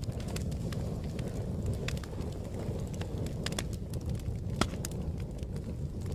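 Fire crackling: a steady low rumble of burning with irregular sharp pops and snaps, a louder pop near the end.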